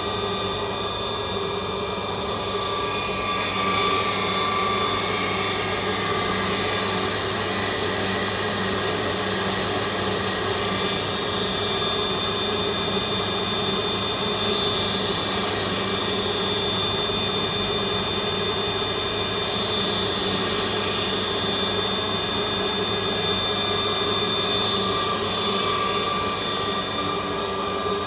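CNC lathe running steadily as it turns a chisel handle: a constant motor hum with a high whine over it and a cutting hiss that swells a little now and then.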